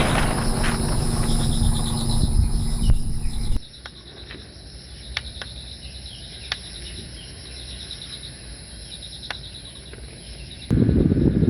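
Insects chirping in quick repeated trills over a steady high whine, with a few sharp clicks. This sits between two loud stretches of low rumbling noise: one at the start, which cuts off suddenly after about three and a half seconds, and one that begins near the end.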